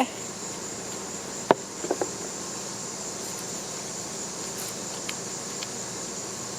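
Steady high-pitched chorus of insects singing outdoors. A single sharp knock comes about a second and a half in, followed by a few small clicks.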